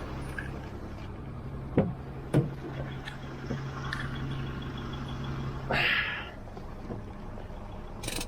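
Vehicle engine idling with a steady hum, two sharp knocks about two seconds in, then a short hiss about six seconds in, after which the hum stops.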